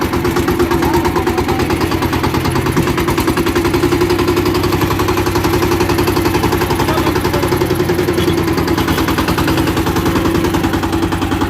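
Walk-behind power tiller's single-cylinder diesel engine running steadily, with a rapid, even chugging of about nine firing pulses a second, as the tiller is driven slowly forward.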